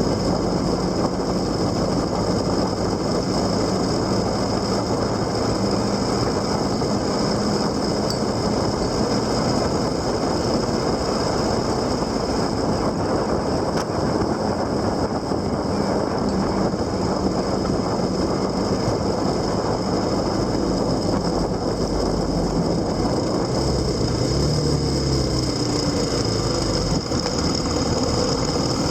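Motorcycle engine running steadily under constant wind and road noise, heard from on board while riding; the engine's pitch shifts a little about 24 seconds in.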